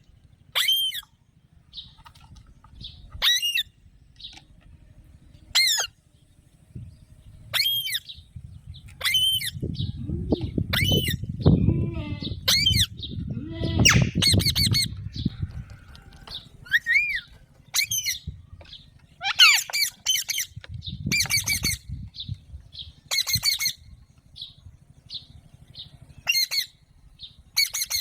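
Alexandrine parakeet giving short, harsh squawks, repeated irregularly every second or two throughout, some in quick clusters. A low rumbling noise runs under the calls for several seconds in the middle.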